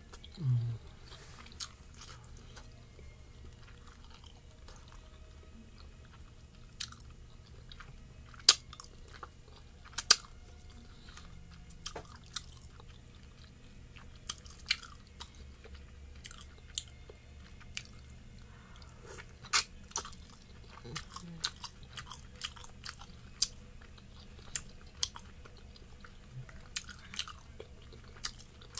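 Close-miked chewing of pan-fried dumplings and noodles: scattered short wet mouth clicks and smacks, a few sharper than the rest around the middle, over a steady low hum.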